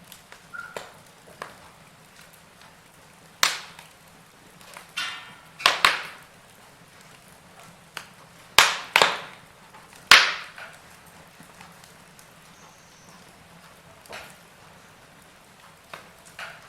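Burning logs in a fireplace crackling: irregular sharp pops and snaps over a faint steady hiss, the loudest few pops coming close together about nine to ten seconds in.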